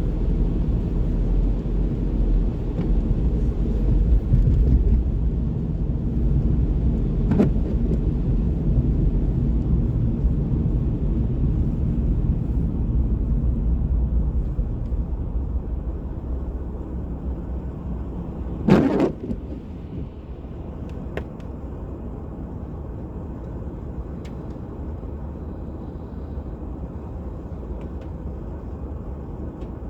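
City street traffic: cars passing with a steady low rumble that eases after about fifteen seconds. A short, louder sound stands out about nineteen seconds in.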